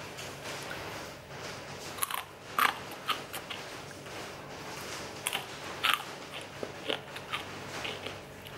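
Crisp fried anchovies in chili sambal bitten and chewed close to the mouth, giving a series of sharp crunches. The loudest crunches come about two and a half seconds in and again near six seconds.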